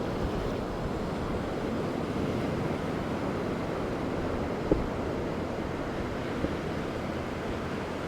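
Ocean surf washing on a beach, a steady rushing noise, with wind rumbling on the microphone. A single faint tap about halfway through.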